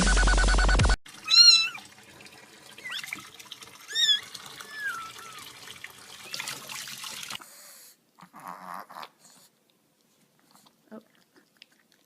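Electronic dance music cuts off about a second in. A cat then meows about four times in short, high, bending calls over a faint steady hiss, and it is mostly quiet after that.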